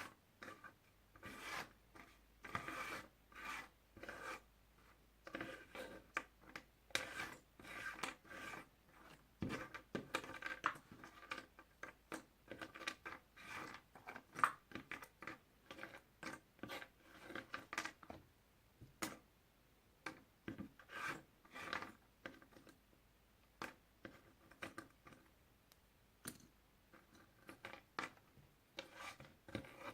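Puzzle pieces being handled: irregular short rubbing and scraping strokes with light clicks as pieces slide against each other and the surface.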